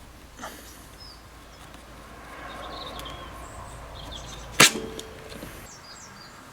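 One sharp knock about four and a half seconds in, from work on the window's metal frame as the pipe channel is fitted, over faint bird chirps.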